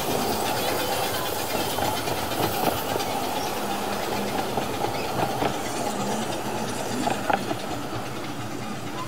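Coaches of a 12¼-inch gauge miniature steam railway train rolling past on the track, with an occasional wheel click over rail joints. The sound slowly fades as the train draws away.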